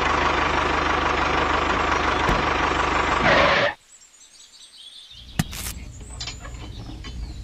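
A vehicle engine running steadily, which cuts off abruptly a little under four seconds in. After it comes a quieter stretch with faint chirps and a few clicks.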